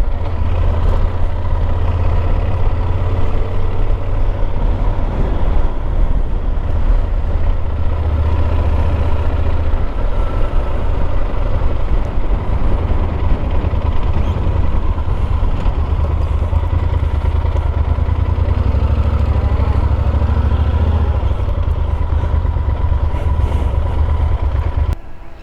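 Motorcycle engine running steadily under way, mixed with a heavy low rumble of wind on the rider's microphone. Near the end it cuts off suddenly to a much quieter scene.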